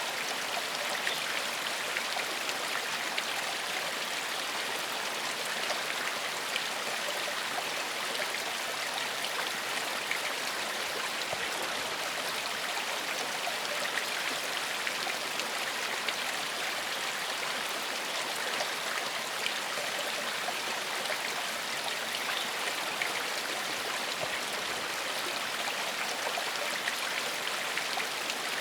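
A small stream flowing over stones: a steady, even rush of water with small splashes and gurgles.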